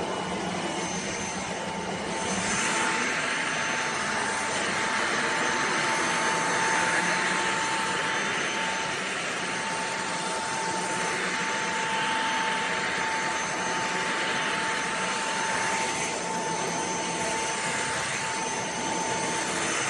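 Cordless stick vacuum cleaner running, a steady high whine over a rush of air that grows louder about two seconds in and rises and falls after that.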